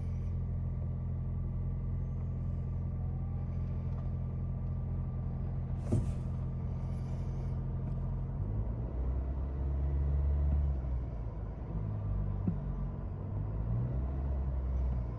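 2025 Toyota Land Cruiser's 2.4-litre turbocharged four-cylinder engine idling just after a cold start, with a low steady drone. There is a sharp click about six seconds in. From about eight and a half seconds the engine note shifts and turns louder and less even.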